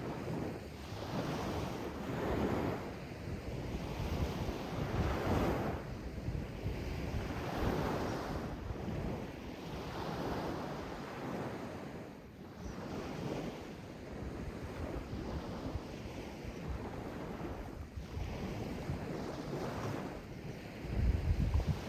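Sea waves washing in, the surf swelling and falling back every two to three seconds, with wind rumbling on the microphone, strongest just before the end.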